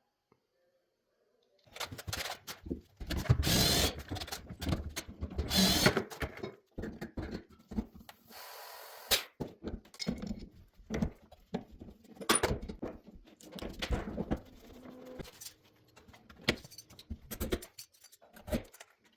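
Handling and tool noises: an irregular run of knocks, clanks and rustling, with a short steady hiss about nine seconds in.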